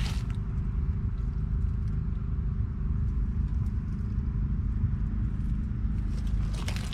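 John Deere 6145R tractor's 6.8-litre six-cylinder diesel engine running at a steady speed, a low even rumble.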